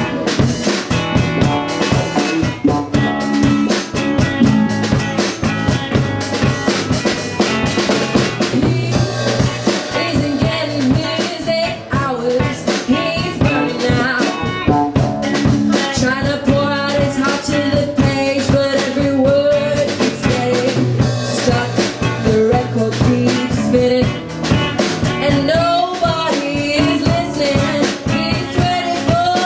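Rock band playing a song: drum kit keeping a steady beat under bass and guitars, with a wavering melodic line over it in the second half.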